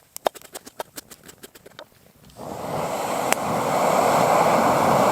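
A series of quick knife clicks on a cutting board as sweet potatoes are cut; about two and a half seconds in, a steady loud sizzle starts as the sweet potatoes fry in a pan.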